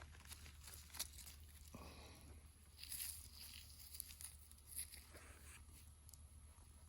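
Near silence: faint, scattered crunches and clicks, with a brief rustle about three seconds in, over a steady low hum.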